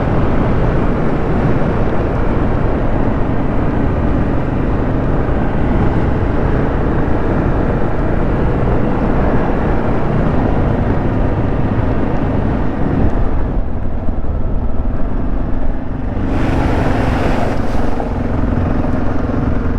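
Kawasaki KLR650's single-cylinder engine running on the move under a thick steady rush of wind and road noise. About 13 seconds in the hissy upper part of the noise drops away, then returns strongly about three seconds later.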